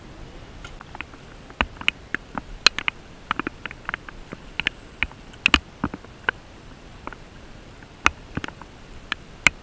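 Scattered raindrops ticking irregularly, a few a second, over a steady low hiss.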